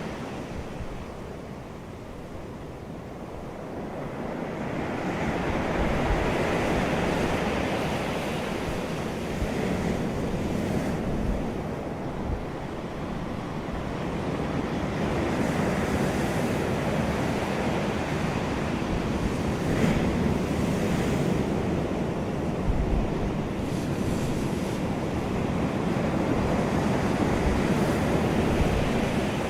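Wind rushing outdoors, swelling and easing every few seconds, with low buffeting on the microphone.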